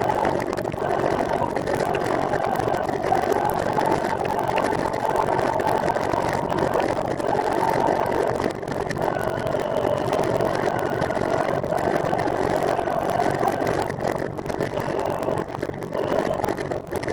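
Steady whir of a recumbent trike rolling along at speed: tyres on pavement and drivetrain, with a faint wavering whine above it.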